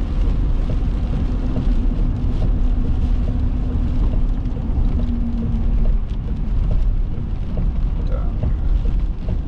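Steady low rumble of road and engine noise inside a moving car, with scattered faint ticks.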